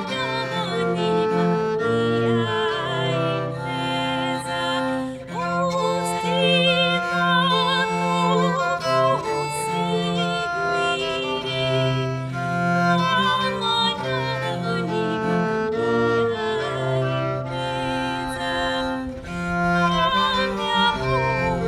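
A late-15th-century Italian frottola performed live: a singer's voice with vibrato over a bowed string instrument holding low sustained notes.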